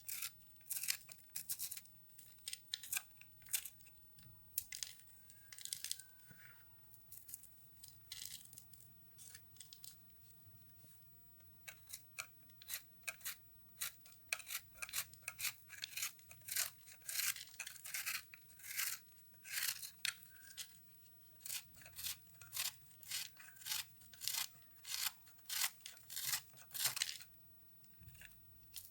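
Microwave-puffed soap being cut and crushed: dry, brittle crunching and crackling in quick irregular strokes, thinner for a few seconds near the middle, then dense until shortly before the end.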